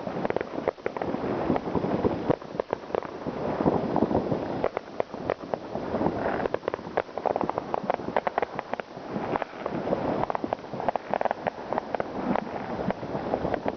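New Year's Eve fireworks and firecrackers going off: a dense, irregular crackle of many bangs close together over a steady rumble.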